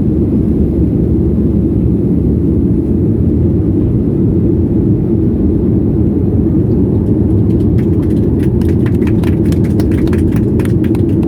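Steady, loud low rumble of an airliner cabin, engine and airframe noise heard from inside. About two-thirds of the way through, a quick run of sharp clicks and rattles sounds over it for a few seconds.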